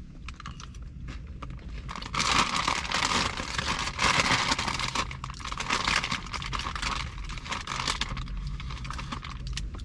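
Crinkling of a Doritos chip bag filled with chicken and toppings being handled and opened up, with two louder spells of crackling about two and four seconds in.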